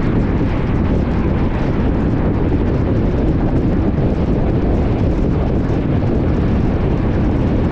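Steady low rumble of a moving car: tyre, engine and wind noise, even throughout with no distinct events.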